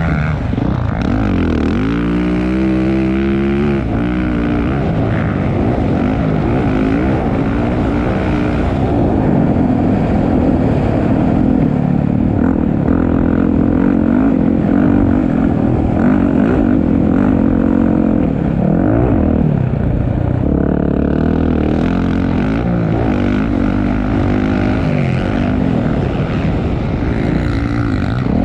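Motocross bike engines racing on the track, revving up and down continuously with overlapping pitches rising and falling as the riders work the throttle and shift; a clear rising rev about two seconds in.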